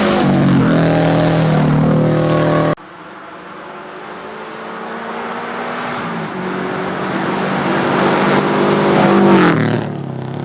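Rally car engines at full throttle. A car revs hard close by with quick rises and falls in pitch through the gears, until a sudden cut. Then another car approaches, growing steadily louder, and passes by with a sharp drop in pitch near the end.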